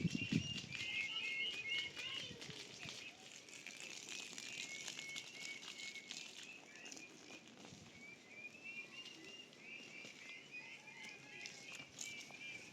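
Small birds chirping in quick, repeated short notes, in a burst over the first few seconds and again through the second half. A brief, louder low-pitched sound comes right at the start.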